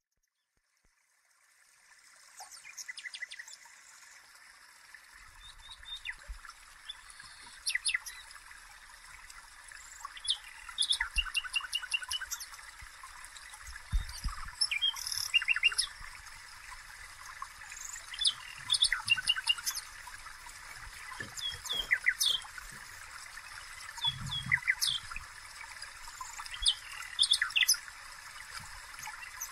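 Small birds chirping and singing over a steady hiss: many short chirps and quick trills throughout. A few soft low knocks come about halfway through and again after about three-quarters.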